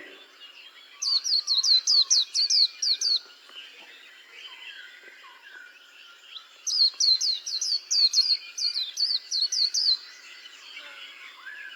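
White-eyes singing: two bouts of rapid, high, repeated down-slurred notes, each lasting about two to three seconds, over steady lower twittering.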